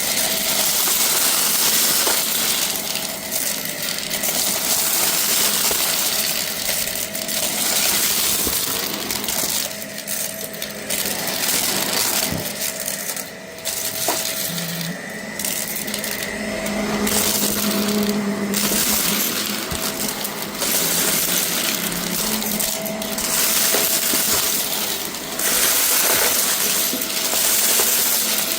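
Vacuum cleaner running over a rug and sucking up a scattered debris mix, hard bits clicking and rattling through the machine over the steady motor hum and rush of air. The sound swells and dips every couple of seconds with the back-and-forth strokes.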